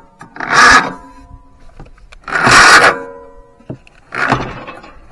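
White LT 946G lawn tractor's starter motor cranking the engine in four short bursts of about half a second each, with a faint steady whine between them. The engine does not catch, and the starter wiring is overheating.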